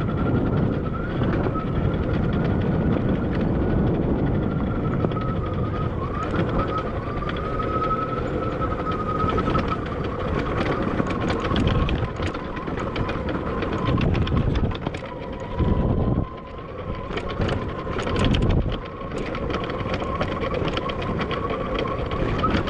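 Admitjet Armor electric dirt bike riding over trail: the motor's steady whine wavers in pitch with speed, over heavy wind buffeting on the microphone and many short rattles and clicks from the bike. The bike is making a growing noise whose source the rider doesn't know.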